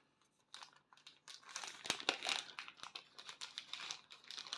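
Plastic packaging crinkling and crackling in irregular handfuls as a diamond-painting toolkit is unwrapped.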